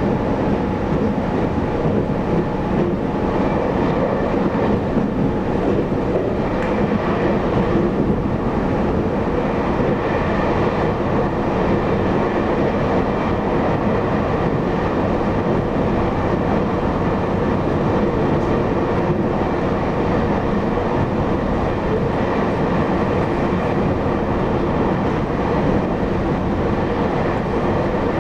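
Steady running sound of a Taiwan Railway EMU800 electric multiple unit, heard from inside the car: a continuous rumble of wheels on rail with faint steady tones from the running gear, even throughout.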